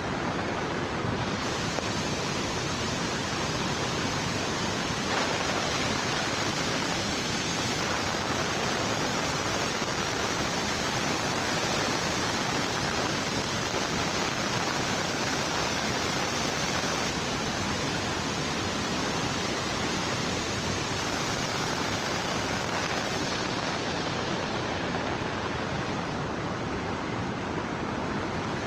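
Steady, unbroken rush of water from heavy rain and flowing floodwater.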